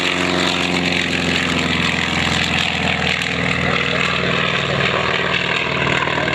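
Sikorsky UH-60 Black Hawk helicopter running, a loud steady drone of several stacked tones that slowly drift in pitch.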